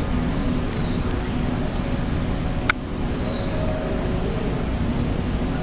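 Small birds chirping, short high calls repeating every half second or so over a steady low rumble. A single sharp click comes a little before the middle.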